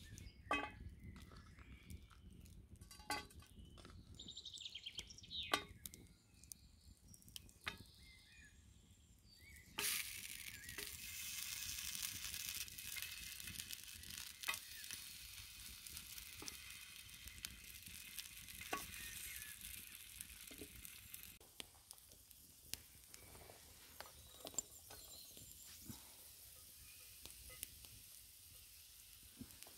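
Sliced potatoes frying in oil in a pan over a campfire: a hissing sizzle that starts suddenly about ten seconds in and eases off after about twenty seconds. Before it, scattered sharp clicks and knocks, with more clicks over the sizzle.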